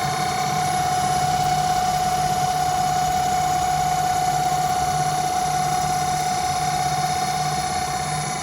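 Home-built CNC lathe running with a steady, high machine whine over a lower hum, easing off slightly near the end.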